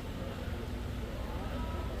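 Steady low rumble with a hiss, as of a running vehicle.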